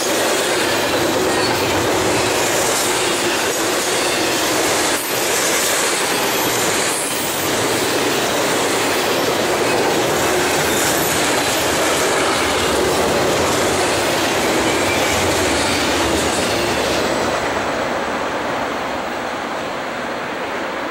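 Double-stack intermodal train's well cars rolling past: steady wheel-on-rail rumble with a few sharp clacks. The noise thins and fades over the last few seconds as the end of the train goes by.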